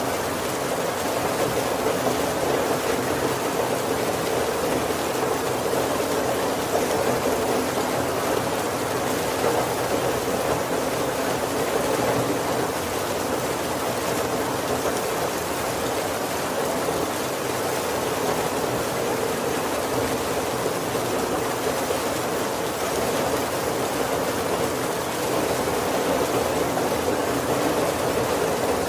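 Heavy rain falling steadily on a wooden carriage roof, heard from inside as an even, unbroken patter with no thunder.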